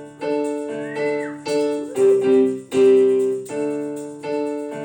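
Piano playing a song accompaniment on its own, with chords struck in a steady pulse under a few sustained notes.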